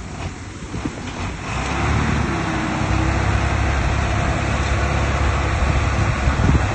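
Heavy diesel engine of earthmoving machinery running steadily, growing louder about a second and a half in.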